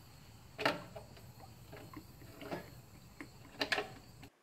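A few light knocks and clicks, three of them louder, over faint, steady, high-pitched chirring of crickets. The sound cuts off sharply just before the end.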